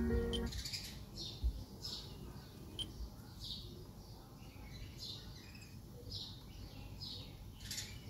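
Birds chirping over a faint low background rumble: short, high, falling chirps repeated every half second or so. Background music cuts off about half a second in.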